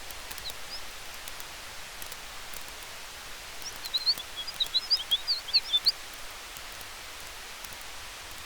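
Campfire ambience: a steady hiss with faint crackling ticks. A quick flurry of short, high chirps, the loudest thing, comes about four to six seconds in.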